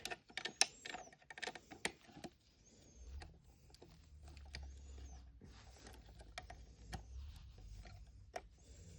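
Light clicks and taps of small plastic Mini Brands miniatures being handled and set into a toy mini fridge, quick and close together for the first couple of seconds, then scattered.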